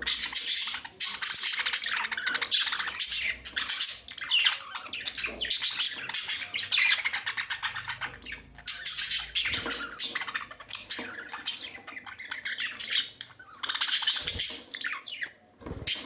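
Budgerigars chattering and squawking: dense, high-pitched warbling in bouts, with short lulls about eight seconds in and again around eleven to thirteen seconds.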